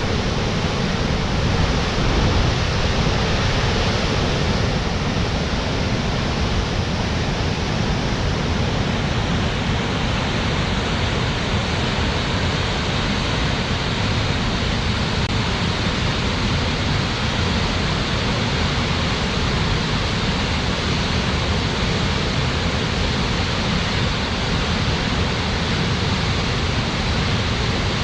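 Waterfall: water falling and crashing into its plunge pool, a loud steady rush with no change.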